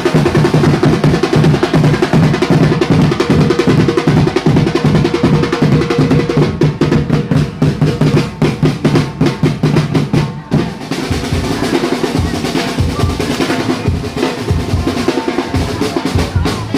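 Marching-band drums playing fast snare drum rolls over bass drum beats. The pattern changes about ten seconds in.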